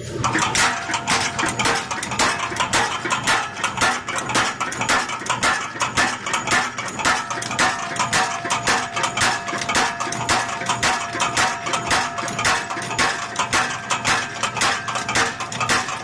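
Motor-driven mechanical power hammer, belt-engaged by a foot pedal, striking hot steel on its anvil in a rapid, steady run of metallic blows, several a second, with a faint ringing tone under them.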